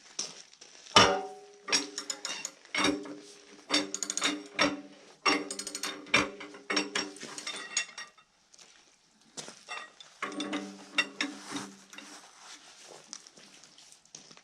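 Steel struck again and again with hand tools: sharp metallic clanks, each ringing briefly, in two runs with a short quick rattle in the middle, during work to free a seized fastener.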